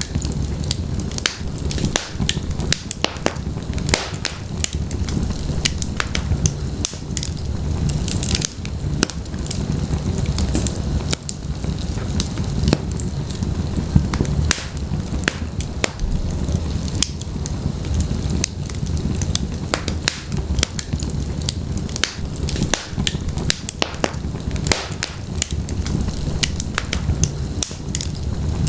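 Wood fire of burning logs in a fireplace, crackling and popping with many irregular sharp snaps over a steady low rumble of the flames.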